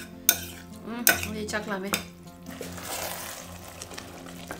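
A metal fork clinks and scrapes against a ceramic bowl while mashing boiled cabbage and chilies, with two sharp clinks in the first second. Partway through, a wooden spatula stirs a pot of simmering rice and fermented-soybean porridge, with a soft steady hiss.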